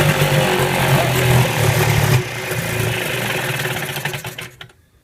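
Eska 7.5 two-stroke outboard motor on choke, running on its first start after five years of sitting. It runs strongly for about two seconds, then drops off, sputters and dies out.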